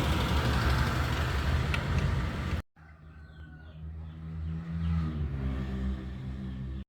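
Engine running with a loud, rough rumble; about two and a half seconds in it cuts off abruptly, and a quieter, steady engine hum follows that grows louder.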